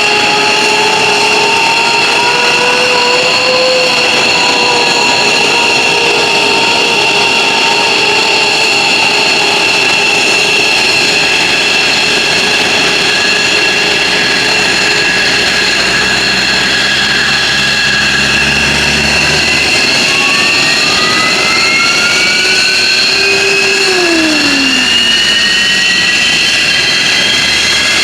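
F-15J Eagle's Pratt & Whitney F100 turbofans running loud at engine start, with a steady high-pitched whine. About two-thirds of the way in, a new whine rises steadily in pitch as an engine spools up, while a lower tone falls away.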